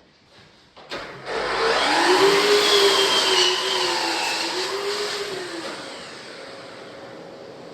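An electric power tool or machine starts about a second in and runs with a wavering pitch, loudest for a few seconds, then settles to a quieter steady run.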